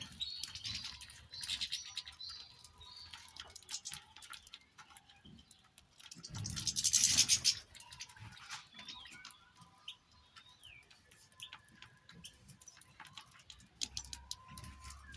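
Small cage birds chirping in short high calls, with scattered small clicks and taps. About six seconds in, a loud rushing hiss lasts about a second and a half.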